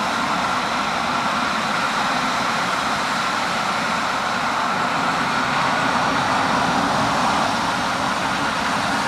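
Embraer Phenom 300 business jet's twin turbofan engines running at takeoff power, a steady jet roar with a thin whine over it, swelling slightly about six to seven seconds in.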